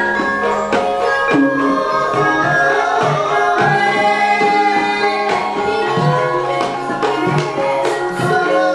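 Gamelan ensemble playing: kendang hand-drum strokes over sustained ringing notes from the metallophones.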